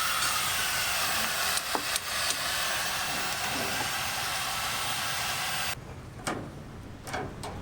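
A steady hiss, like a spray or a jet of air, with a few light knocks in it. It cuts off suddenly near the end and is followed by a few sharp knocks.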